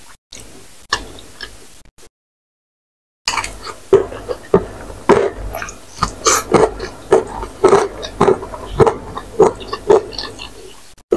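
Close-miked mouth sounds of eating spicy ramen noodles: wet chewing at about two to three chews a second. A brief dead gap about two seconds in, then the chewing runs on steadily.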